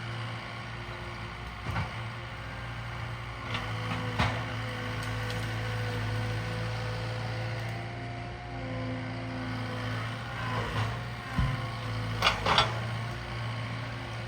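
Cat 299D2 compact track loader's diesel engine running steadily under work. Several sharp knocks and clanks come over it, the loudest a pair about twelve seconds in.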